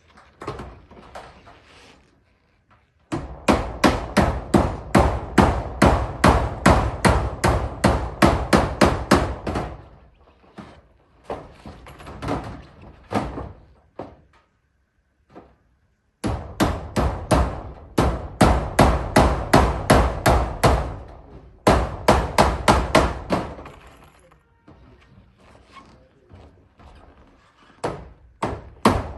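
Hammer driving nails through corrugated zinc roofing sheets: runs of quick, even strikes, about three a second, broken by short pauses.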